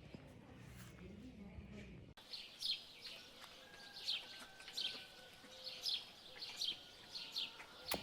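A bird calling in short, sharp, downward-sliding chirps, about one or two a second, starting after an abrupt change about two seconds in; before that, a low murmur of background noise.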